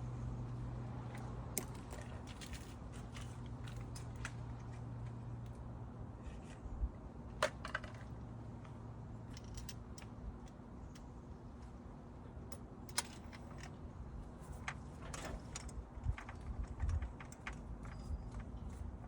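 Scattered light clicks and clinks of hand tools and parts being handled during a spark plug and ignition coil job, with a few sharper knocks, over a low steady hum.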